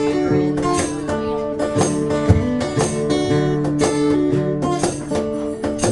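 Strummed acoustic guitar playing an instrumental break, with a steady rhythm of strokes.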